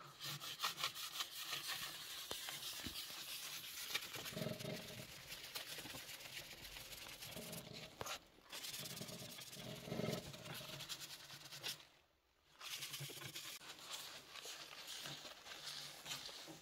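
Wet paper napkin coated in wood ash rubbed back and forth over the soot-stained glass of a cast-iron stove door, a steady scratchy scrubbing that stops briefly twice.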